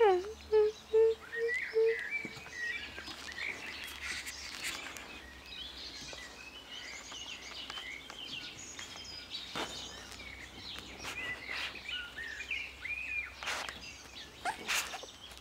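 Small birds chirping and twittering, opening with a run of about five short, low, evenly pitched notes in the first two seconds, the first one sliding down. A few faint knocks come near the end.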